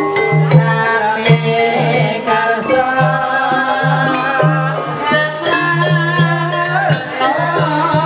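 Javanese gamelan music with a singer's voice over it, in the style that accompanies ebeg (kuda lumping) dancing, with a low note repeating under the melody.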